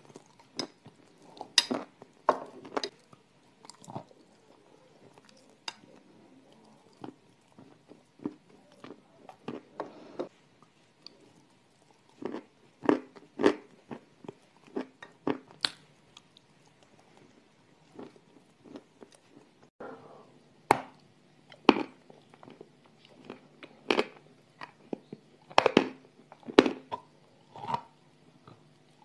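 Close-up crunching and chewing of dry, crumbly chunks of edible clay: sharp, irregular crunches between quieter chewing, loudest in the second half.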